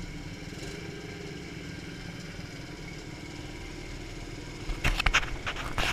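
Mini motocross bike engine idling steadily. A burst of several loud knocks comes near the end.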